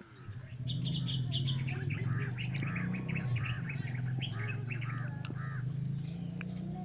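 Small birds chirping outdoors, many short repeated high notes, over a steady low hum that starts about half a second in.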